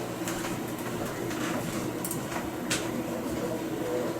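Steady background hiss with a low hum and a few faint clicks, the noise floor of a broadcast recording between alerts.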